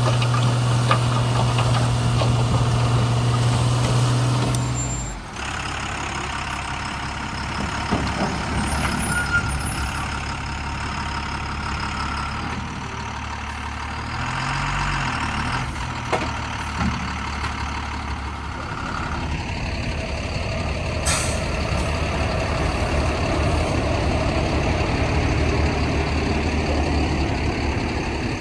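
Diesel engines of a JCB 3DX backhoe loader and a Tata 2518 dump truck running during loading. A strong steady drone stops about five seconds in, and the engine sound keeps changing after that.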